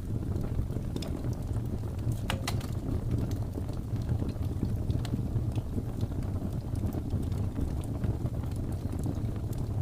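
Wood fire crackling, with scattered sharp pops and a quick cluster of snaps a little over two seconds in, over a steady low rumble of blizzard wind.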